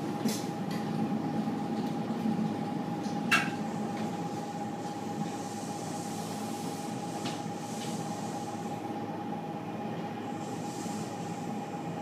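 Electric suburban train coming to a stop at a platform and standing, heard from inside the carriage: a low steady rumble under a constant mid-pitched electrical hum, with a few sharp clicks in the first few seconds.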